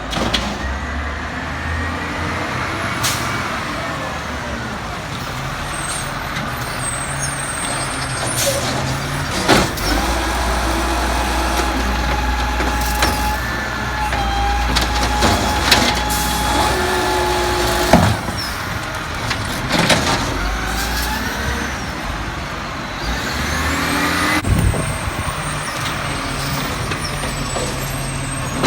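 Autocar Xpeditor trash truck running, its engine note rising and falling, with a steady whine for several seconds midway and several sharp knocks.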